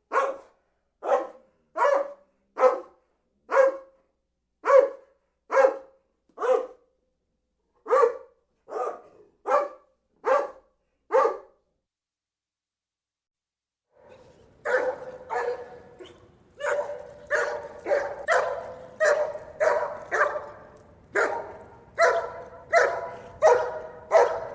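Dog barking in a series of single sharp barks, a little under two a second, that stops about halfway through. After a short silence a second recording begins: faster, closer-packed barking over faint background noise.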